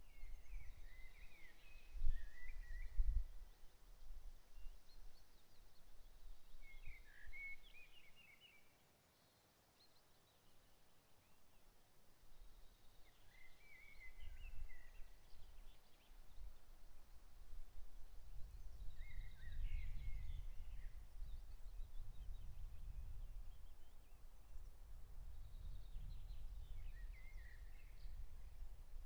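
A songbird singing a short warbled phrase about every six seconds, five times, over a low uneven rumble that fades out for a few seconds midway and then returns.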